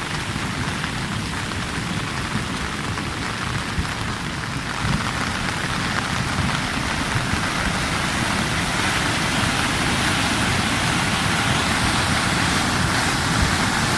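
Steady rush of water from a small river swollen by torrential rain, mixed with heavy rain falling. The noise grows a little brighter and louder in the later part.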